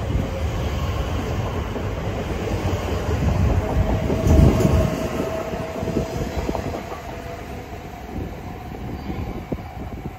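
Elizabeth line Class 345 electric train running past along the platform, its wheels rumbling on the rails with a few sharp clicks and a steady whine in the middle. The rumble is loudest about halfway through and fades as the last carriage clears.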